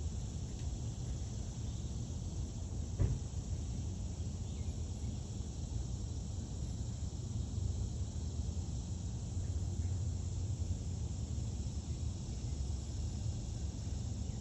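Outdoor ambience: a steady high chirring of insects over a low rumble, with a single short click about three seconds in.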